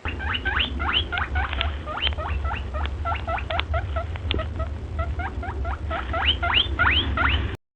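Rapid run of high squeaks from a recorded small animal, played as a rabbit's sound. Each squeak rises sharply in pitch, about five a second, over a low hum, and the run cuts off suddenly near the end.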